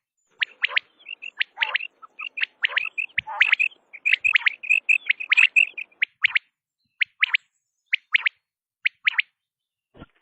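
Quail calling: sharp, down-slurred whistled notes, many of them in pairs, with a quick run of short repeated chirps in the middle.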